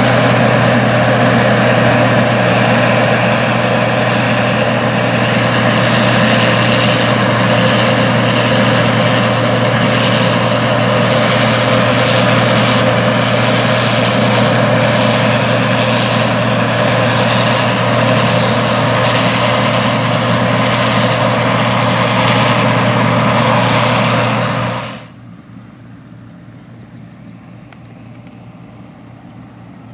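Deutz-Allis Gleaner R60 combine running while harvesting wheat: its Cummins 8.3 CTA diesel and threshing machinery give a loud, steady drone. About 25 seconds in, the sound drops suddenly to a much quieter steady hum.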